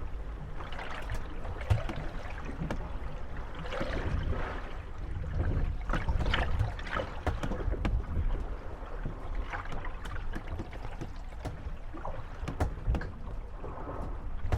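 Moored wooden gondolas rocking on waves, creaking and knocking against each other and their moorings, with short sharp clicks scattered throughout over a steady low rumble of wind and lapping water.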